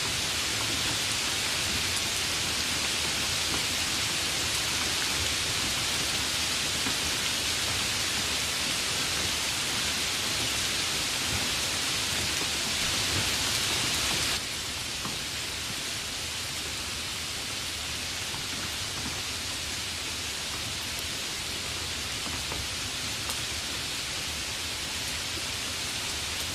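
Steady rain, an even hiss with no distinct drops or thunder. About halfway through it suddenly turns a little quieter and less hissy, then carries on steadily.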